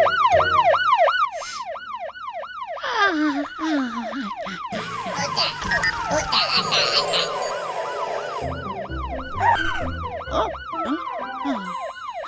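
Cartoon fire truck siren wailing in quick rising-and-falling sweeps, about three a second. Other cartoon sound effects are mixed in, including a falling glide a few seconds in.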